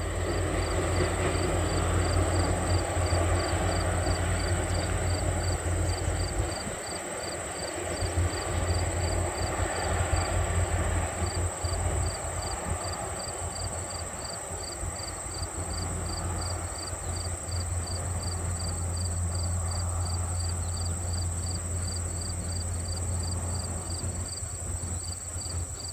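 Passenger train rolling across a tall steel railway trestle: a steady low rumble like a subway train, which eases after the first several seconds as the train draws away.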